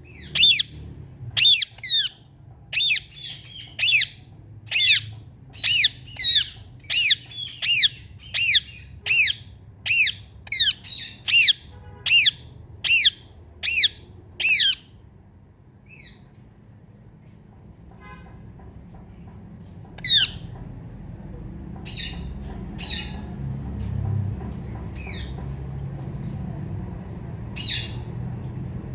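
Female Indian ringneck parrot giving loud, sharp chirping squawks, about two a second for the first fifteen seconds. After a short pause she calls again singly every second or so.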